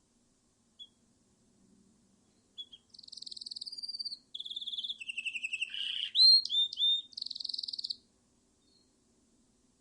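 A songbird singing one varied phrase of about five seconds, starting a couple of seconds in: high trills and rapid repeated notes, then a few sharp upswept whistles, ending in a final trill.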